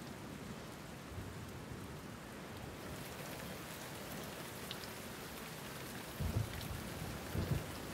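Steady rain falling, with two short low rumbles near the end.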